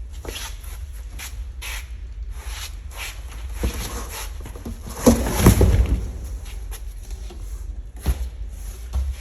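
Gear being handled: scattered taps, knocks and rustles, with a louder scraping clatter about five seconds in, over a steady low rumble of wind on the microphone.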